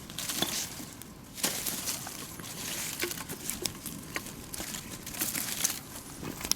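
Bonfire of dry cut branches and brush burning, with irregular crackles and sharp snaps over a steady hiss.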